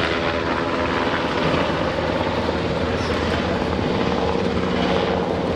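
US Coast Guard MH-60T Jayhawk helicopter: its rotor blades and twin turboshaft engines running steadily, loud and close.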